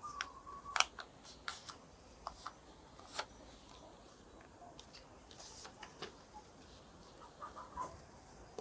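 Sheet of paper being handled and folded: scattered crisp crackles and taps as it is creased, the sharpest about a second in.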